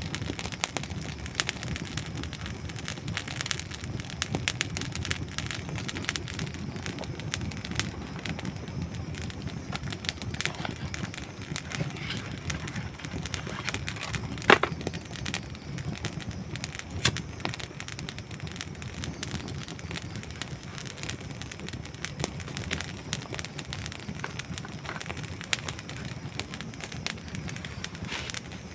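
Campfire of dry wood burning, crackling and popping steadily over a low hiss of flame, with one loud sharp pop about halfway through.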